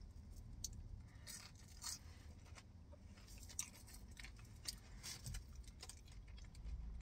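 A person biting into and chewing crispy french fries: faint, scattered crunches.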